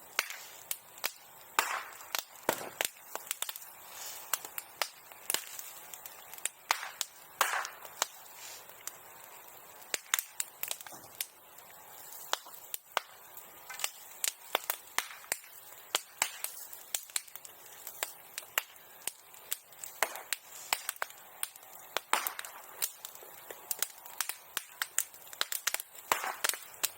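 Bonfire crackling, with many sharp irregular pops and snaps.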